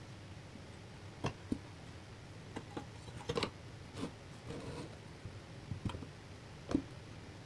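Irregular light clicks and knocks of metal parts and hand tools being handled while working on a rusty bench grinder, with a cluster of quick knocks about three and a half seconds in and a sharper knock near the end, over a faint steady hum.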